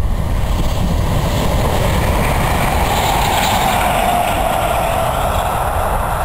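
Distant electric passenger train passing, a rush of running noise that swells to a peak about halfway through and then eases, over a steady low rumble.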